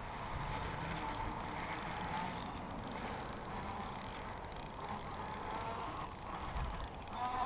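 Spinning reel being cranked steadily while reeling in a hooked largemouth bass.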